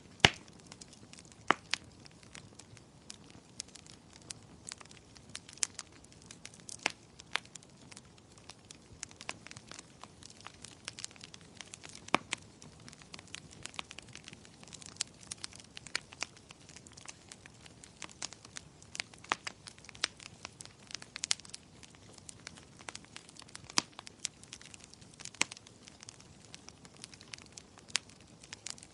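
Wood fire crackling in a fireplace: irregular sharp pops and snaps, a few much louder than the rest, over a low steady hiss.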